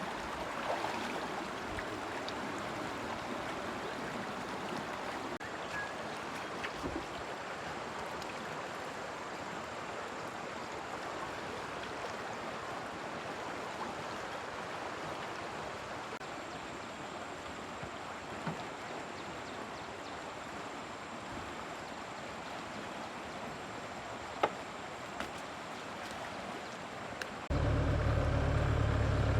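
Steady rush of flowing water, with a couple of faint ticks. Near the end an engine running at a steady idle cuts in abruptly and becomes the loudest sound.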